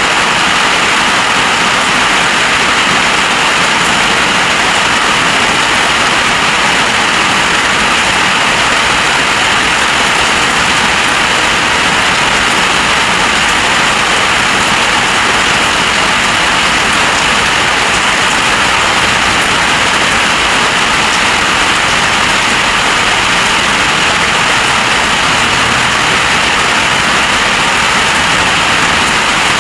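Heavy storm rain pouring down in a steady, even rush.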